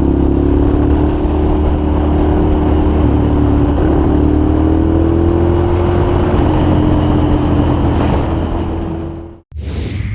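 Ducati Monster's L-twin engine running steadily under way, its pitch drifting only slightly. About nine and a half seconds in it cuts off abruptly and a sweeping whoosh follows.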